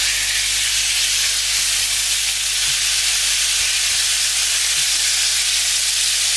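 Diced chicken breast sizzling steadily in hot olive oil in a frying pan, just after going in.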